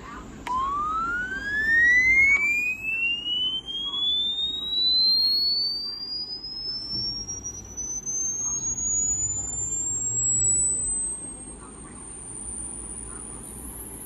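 An electronic sine-wave test tone sweeping slowly and steadily upward in pitch, from a mid whistle to a very high, thin tone. It starts with a click about half a second in. The tone is played at an Arduino sound sensor to change its readings with pitch.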